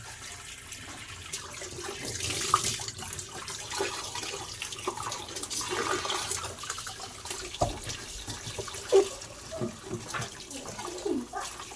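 Water running and splashing as a twin-tub washing machine is rinsed during cleaning, with scattered light knocks and clicks.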